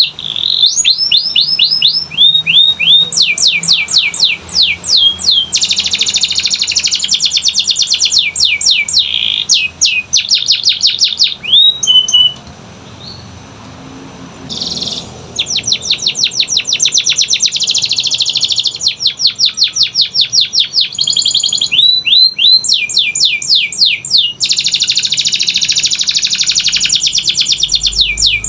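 Domestic canary singing: fast runs of repeated down-sweeping whistled notes alternating with dense, buzzy rolls, the song pausing for about two seconds midway before resuming.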